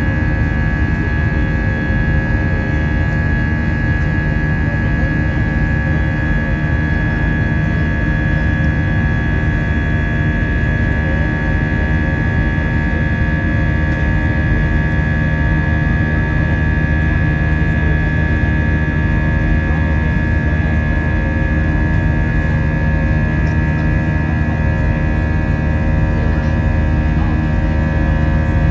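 Airbus A320 jet engines heard from inside the passenger cabin: a steady drone with several held whining tones.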